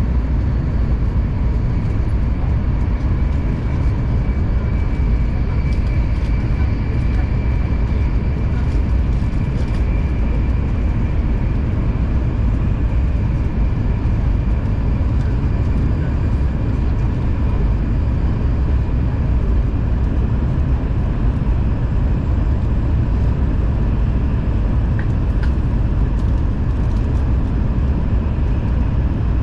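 Shinkansen passenger cabin noise while the train runs: a steady low rumble with a faint steady whine over it.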